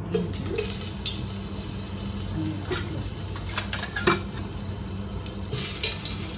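Cut potato pieces frying in hot oil in a metal pot, a steady sizzle that starts as they go in. Sharp clinks of a metal spatula against the pot come a few times, loudest about four seconds in.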